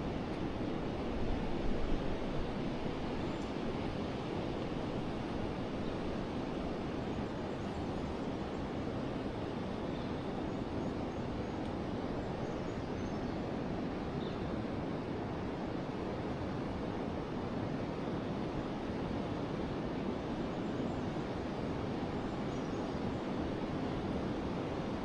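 Forest river flowing, a steady even rush of water, with a few faint bird chirps scattered through it.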